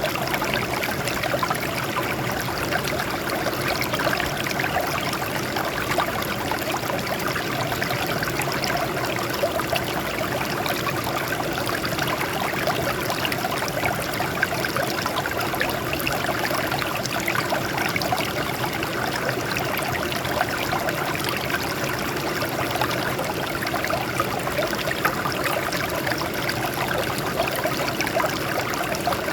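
Water flowing and splashing over rocks, a steady rush with a fine trickling texture that does not change.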